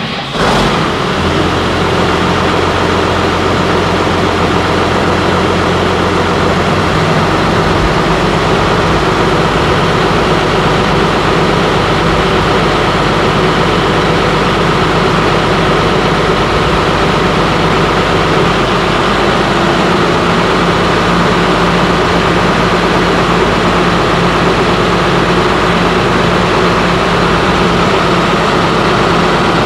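Loader tractor's diesel engine starting up after an oil service and then idling steadily; its low note changes about eight seconds in, then holds.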